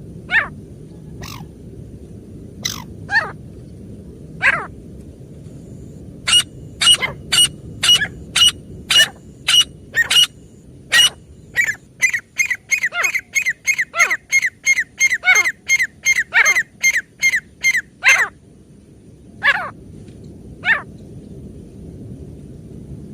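Female grey francolin calling: a few sharp single notes, then a fast run of repeated calls that speeds up to about three a second before breaking off abruptly, followed by a couple of single notes.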